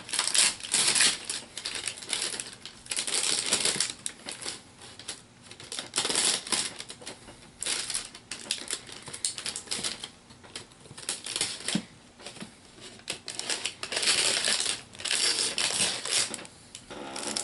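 Cardboard packaging being handled and opened: irregular bursts of scraping, rustling and small clicks and knocks as boxes are moved about.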